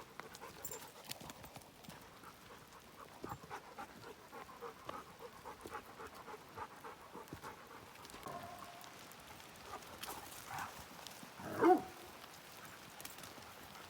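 Dogs trotting and panting, with light, irregular steps from paws and footsteps. A short call that rises and falls near the end is the loudest sound.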